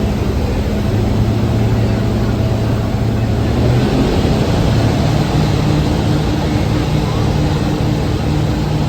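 Thames Clipper passenger boat running under way: a steady engine drone over a rushing wash of water and wind. The engine note steps up in pitch about halfway through.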